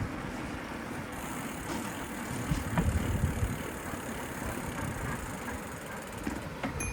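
City street and traffic noise heard from a moving bicycle: a steady rushing noise with a louder low rumble between about two and a half and three and a half seconds in.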